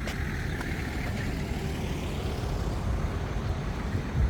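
Car driving at low speed, engine and road noise as a steady low rumble, with a brief click at the start.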